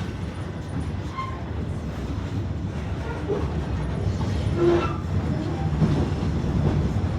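A narrow-gauge passenger train rolling along behind a diesel locomotive: a steady low rumble of the car's wheels on the rails.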